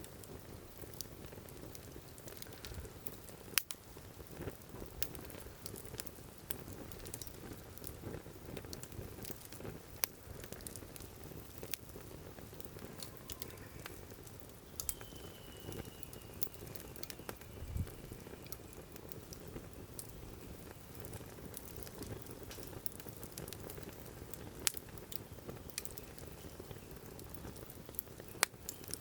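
Wood fire burning in a firewood grill: scattered sharp crackles and pops over a steady low bubbling hiss.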